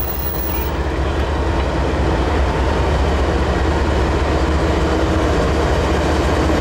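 Norfolk Southern freight train rolling past with a loud, steady low rumble.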